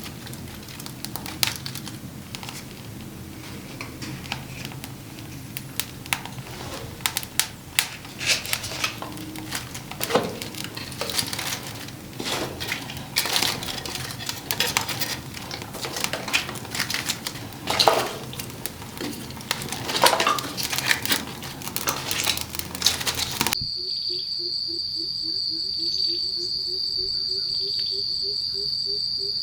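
Irregular clicks, clatter and crinkling of things being handled, then an abrupt change about three-quarters of the way through to a steady high trill of crickets with a lower pulsing call that slowly rises in pitch.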